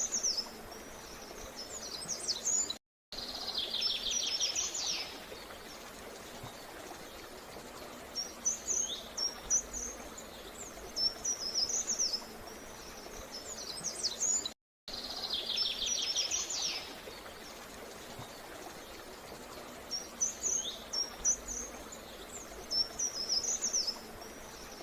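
Songbirds chirping in short, high, quick phrases over a steady background hiss, with a fast trill twice, about 3 s and 15 s in. The sound cuts out briefly just before each trill, and the whole pattern repeats about every 12 seconds, as a looped recording does.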